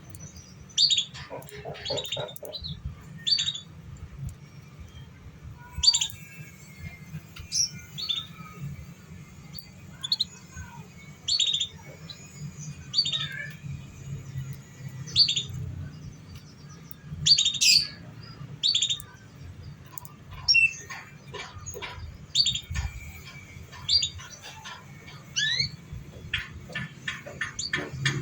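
Domestic canary singing in short chirps and whistled notes about once a second, breaking into a quick trill near the end, over a faint low hum.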